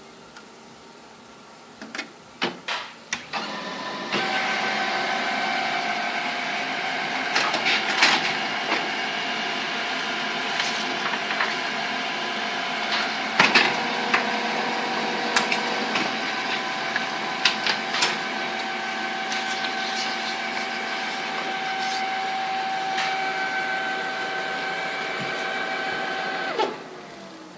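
HP Color LaserJet CP2025n colour laser printer clicking a few times, then running a print cycle with a steady whine of several fixed tones and scattered clicks, before winding down near the end. The printer has a refilled black toner cartridge, and the owner calls its sound annoying.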